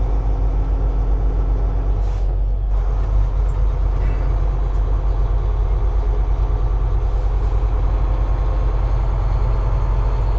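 Volvo semi truck's diesel engine running steadily under way at highway speed, a continuous low drone mixed with road noise. A steady hum in the drone drops out about two seconds in.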